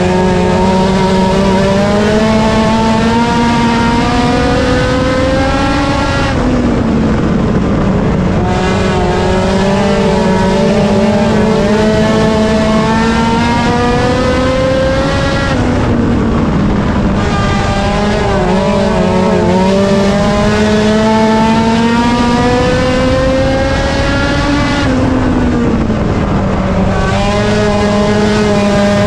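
Race car engine at full throttle lapping a short oval. The revs climb steadily down each straight and drop sharply into each turn, about every nine to ten seconds.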